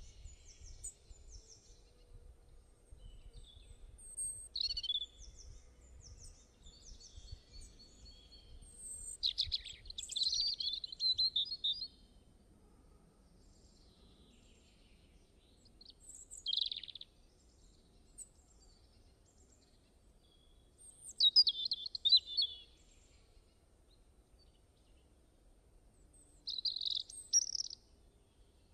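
Birds singing and chirping in short scattered phrases, with louder bursts of song about a third of the way in, in the middle, and near the end, over a faint low background rumble.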